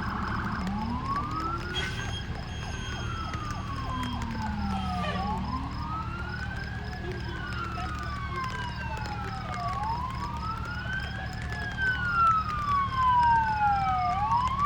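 Two or more emergency-vehicle sirens wailing at once, each rising quickly and then falling slowly in pitch in a repeating cycle of about four to five seconds, offset from each other.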